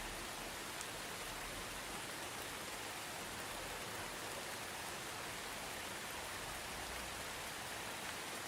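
Soft, steady rain: an even hiss of falling drops with no breaks.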